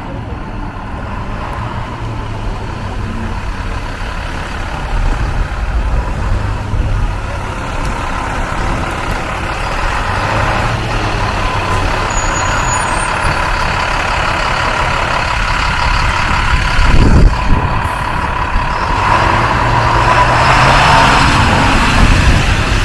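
Street traffic with a truck's engine running close by, growing louder toward the end, and a short sharp knock about three-quarters of the way through.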